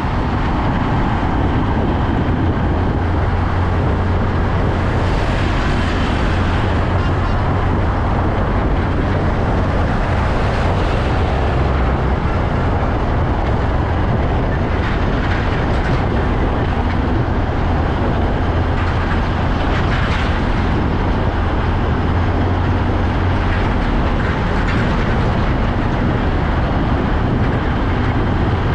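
Heavy truck engine running with a steady low rumble under a broad noise that stays even throughout.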